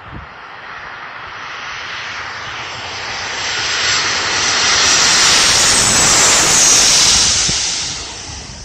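Jet airliner passing low overhead on landing approach: its engine noise swells, peaks with a high whine in the last few seconds, then fades as it goes by.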